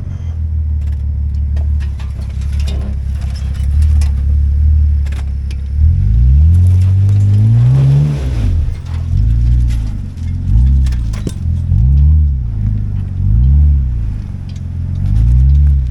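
A 4x4 truck's engine running steadily, then revving up about six seconds in, followed by revs rising and falling again and again, about once a second, as the throttle is worked. Scattered light clicks and rattles come through over the engine.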